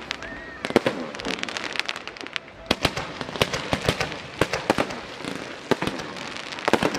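Aerial fireworks display: many shells bursting and crackling in quick, irregular succession, several sharp reports a second.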